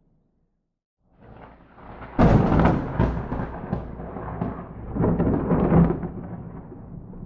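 A close thunderclap: after a second of quiet a rumble builds, breaks into a sudden loud crack, then rolls on with crackling and swells again before fading slowly.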